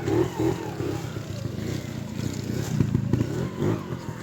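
Trials motorcycle engine running under the rider's throttle, with the revs swelling in short bursts several times.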